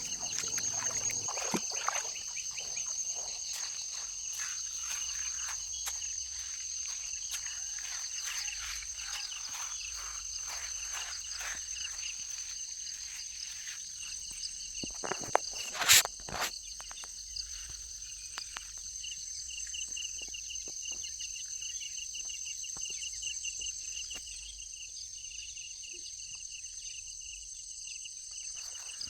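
Insects shrilling steadily, with a fast pulsing trill underneath. Scattered crackles and clicks run through it, with one sharp, louder crack about sixteen seconds in.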